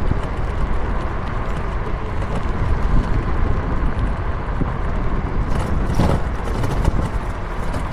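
Wind buffeting the microphone and tyre rumble from riding along a path, with a few short knocks near the end.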